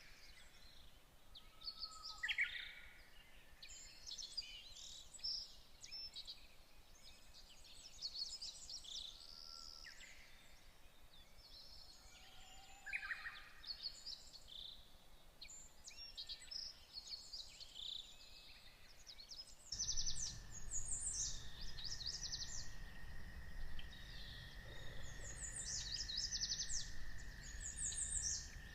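Several birds chirping and trilling in short, overlapping calls. About two-thirds of the way through, a steady high-pitched tone and a low rumble begin under them.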